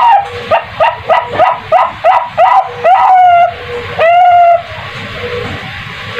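An animal calling: one long call, then a quick run of short rising yelps, about three a second, then two longer calls, over a steady background hiss.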